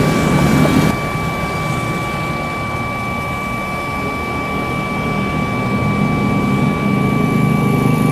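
Jet engines of a Boeing 777-300ER, GE90-115B turbofans, running with a steady high whine over a low rumble that grows stronger over the last couple of seconds.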